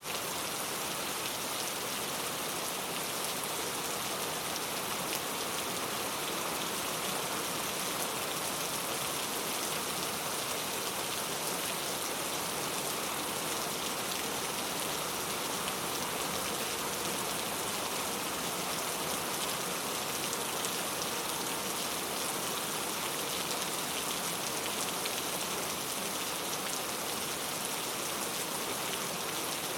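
Steady rain falling, a dense even hiss of many drops with fine patter from drops striking a surface.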